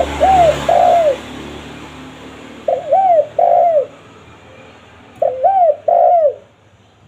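Spotted dove (tekukur) cooing: three phrases about two and a half seconds apart, each a short note followed by two arched, falling coos.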